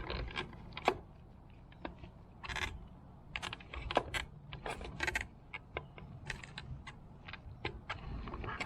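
Irregular clicking and light clattering of hard plastic and metal parts being handled as the fuel pump assembly is worked apart.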